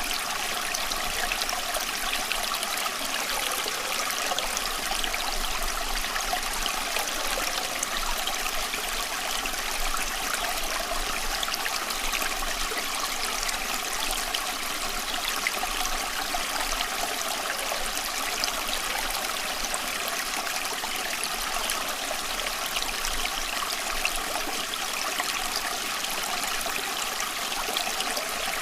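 Running water, a steady, even rush and trickle like a flowing stream, with no pauses or changes.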